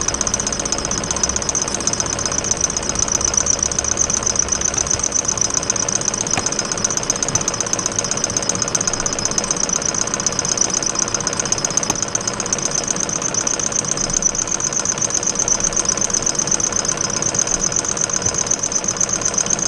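Small standing-wave thermoacoustic engine running steadily: a fast, even mechanical chugging with a steady high-pitched tone over it.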